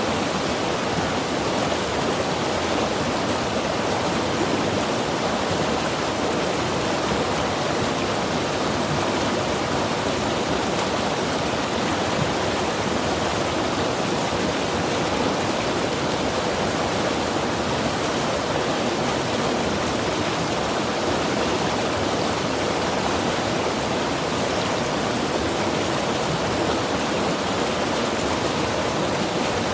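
Mountain river rushing steadily over rocks, an even, unbroken rush of water.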